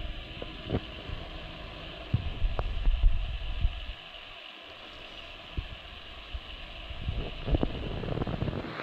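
Car on the move: low road rumble and wind buffeting on the microphone, with a few sharp knocks, louder for a couple of seconds before easing off.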